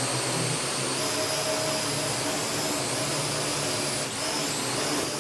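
Parrot AR.Drone quadrotors in flight: electric motors and propellers whirring in a steady rushing hum with high whines that shift slightly in pitch.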